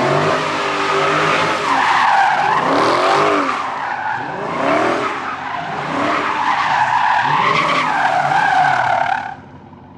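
Dodge Scat Pack's V8 engine revving up and easing off several times while the rear tyres spin and squeal in a burnout, the squeal loud and continuous until it cuts off about nine seconds in.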